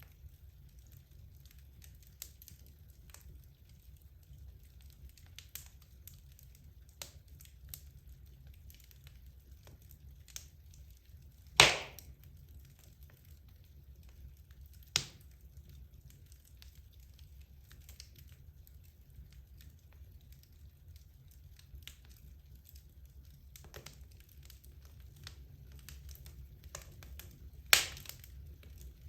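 Wood fire burning in a fireplace: a low steady rumble with scattered small crackles and ticks, and two loud sharp pops, one about twelve seconds in and one near the end, with a smaller pop in between.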